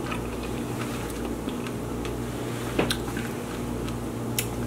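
Close-miked chewing of a fresh strawberry: soft, wet mouth sounds with a few small clicks, two sharper ones about three seconds and four and a half seconds in, over a low steady hum.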